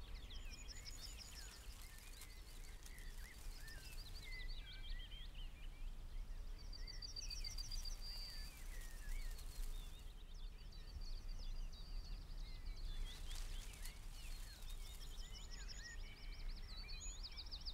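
Songbirds singing in bouts of rapid high trills and short chirps, over a low steady rumble.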